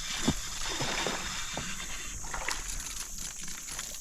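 Water splashing and sloshing beside a kayak, with scattered small clicks and knocks, heaviest in the first couple of seconds and easing off after.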